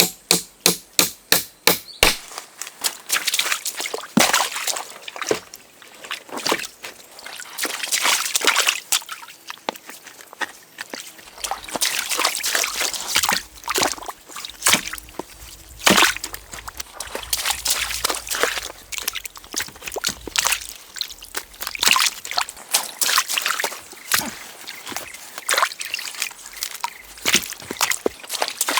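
A quick run of sharp blows, about four a second, that stops about two seconds in. Then water sloshing and splashing, with irregular knocks.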